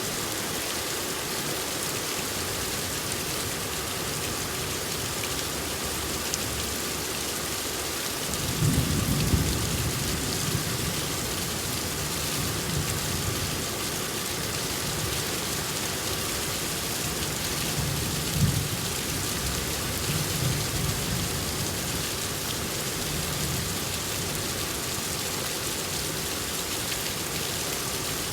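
Steady rain falling, with thunder rumbling low twice: once about eight seconds in and again about eighteen seconds in.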